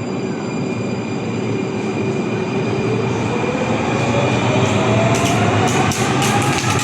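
Electric tram pulling away from a stop: its traction motors whine, the pitch rising steadily as it speeds up, over the rumble of steel wheels on the rails. From about five seconds in, a run of sharp clicks joins in.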